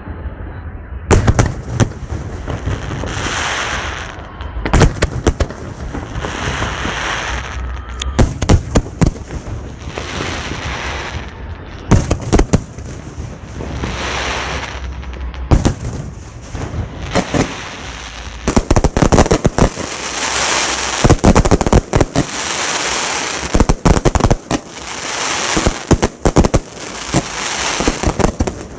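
Fireworks display: a loud bang every three to four seconds with crackling and hissing between, then, from about two-thirds through, a dense rapid string of bangs and crackle.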